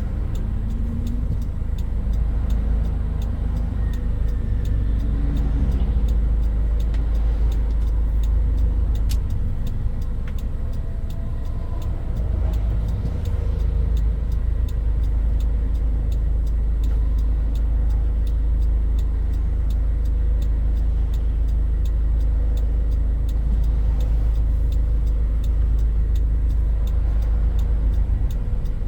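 Toyota Hilux Mighty-X pickup driving, a steady low engine and road rumble. For the first few seconds the engine's pitch rises as it accelerates, then it settles into a steady run.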